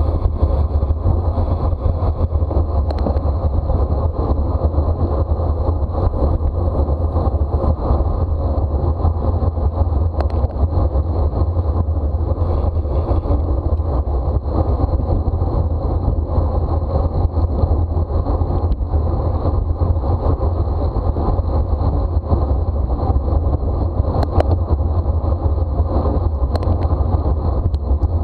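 Steady rushing wind noise on the microphone of a racing bicycle's onboard camera, a loud, even rumble with no let-up.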